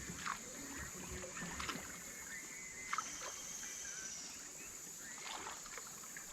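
Water sloshing and small splashes and knocks around a kayak, about four in all, while a hooked channel catfish is brought alongside, over a steady high-pitched hiss.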